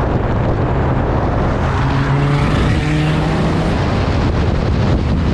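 A car driving: a steady engine note under a loud rush of road and wind noise.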